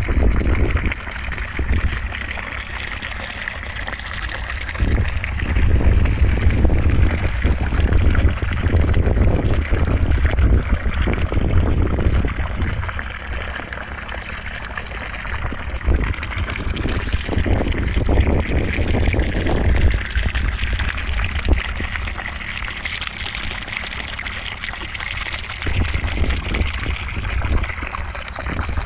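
Continuous white-noise rush of gushing water, with a deep rumble that swells and eases every few seconds.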